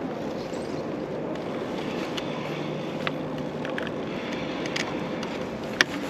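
Steady rolling and wind noise from riding a bicycle, with a faint steady hum, a few light clicks and one sharp rattle or knock near the end.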